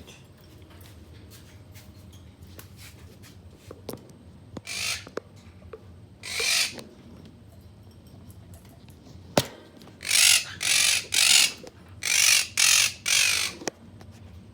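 Quaker parrots (monk parakeets) giving harsh, grating squawks: two single calls, then a rapid run of six near the end. A single sharp click comes just before the run.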